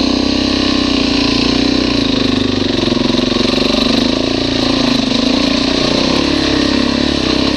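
Motorcycle engine running while riding, a steady drone whose pitch wavers slightly up and down with the throttle.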